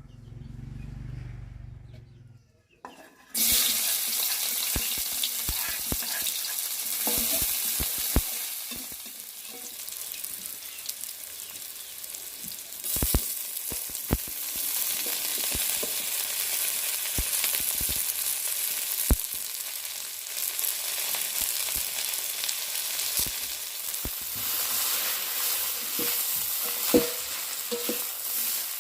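Food frying in hot oil in a pan, with stirring: a steady sizzle that starts suddenly about three seconds in, with scattered clicks and knocks.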